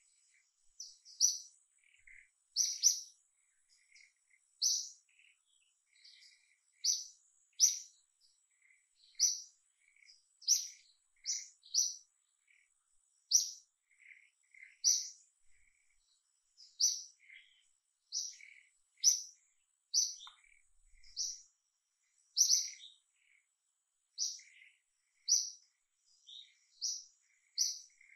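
Birds chirping: short, high chirps repeated irregularly about once a second, with fainter, lower chirps between them and a faint steady high tone underneath.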